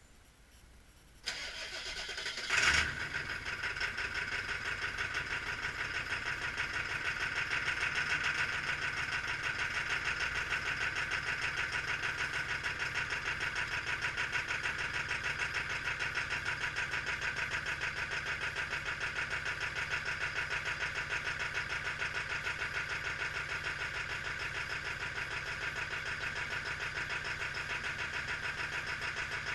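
Ford Power Stroke diesel engine cold-started at about 10 °F with no block heater: it cranks for about a second and a half, catches with a loud burst, then runs on at a steady idle with a fast, even pulse.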